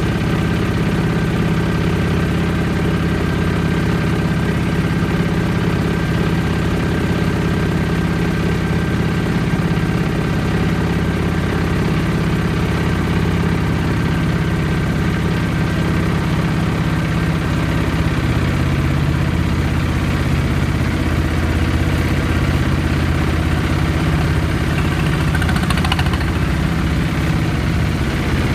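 Boat's inboard engine running steadily at cruising speed, a low droning hum with a slight change in pitch about two-thirds of the way through.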